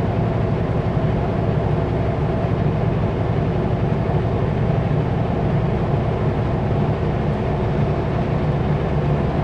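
Kenworth W900L semi truck's diesel engine running steadily at highway speed, heard from inside the cab as an even, low drone with road noise and no change in pitch.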